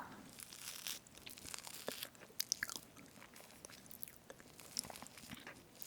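Close-up chewing of strawberry whipped-cream cake: scattered soft, wet mouth clicks and small crunches.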